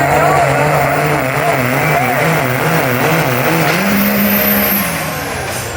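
5.9 Cummins straight-six diesel engine pulling hard under load, its pitch wavering. About four seconds in the pitch jumps up and holds steady, as if the engine had lost its load, then the sound dies away near the end. This marks the run breaking; onlookers wonder whether the clutch went.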